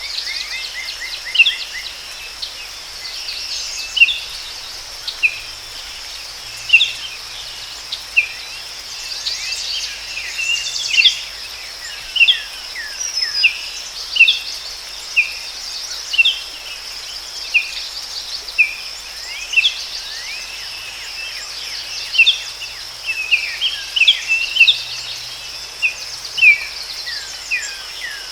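Forest ambience: a steady high-pitched drone of insects, with birds calling in short chirps about once a second.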